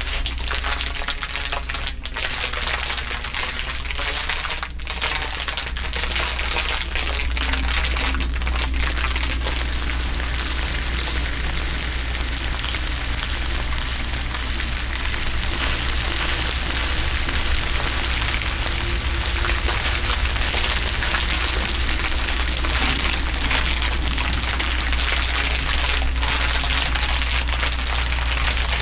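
Several layers of crinkling, overlapping into a dense, continuous crackle, with a steady low hum underneath.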